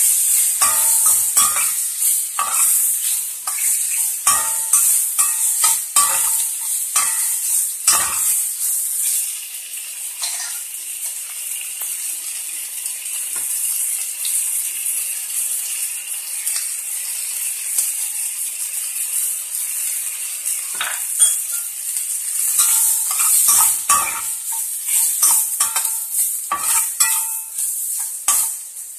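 Tomato, chillies and curry leaves sizzling in hot oil in a stainless steel pan, with a metal spoon scraping and clinking against the pan as they are stirred. The stirring pauses for about ten seconds midway, leaving the sizzle alone, then starts again near the end.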